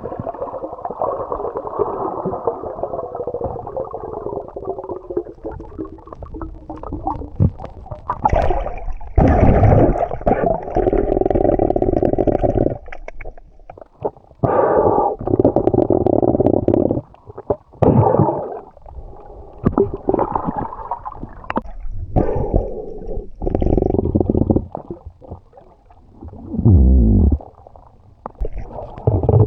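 Muffled, gurgling underwater sound of sea water moving around a submerged camera, coming in uneven surges every few seconds.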